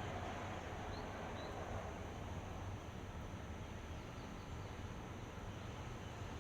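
Steady outdoor background noise with a low hum, and two faint short high chirps about a second in.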